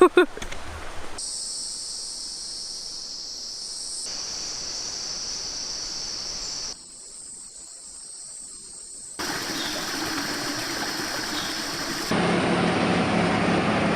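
Rushing water of a rainforest stream, in a run of short cuts that change the sound abruptly every few seconds. In the first half a steady high-pitched drone sits over quieter background.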